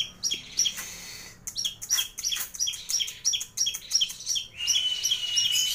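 Long-tailed shrike singing a run of short, high, falling chirps, about three a second, then a steady whistled note held for about a second near the end.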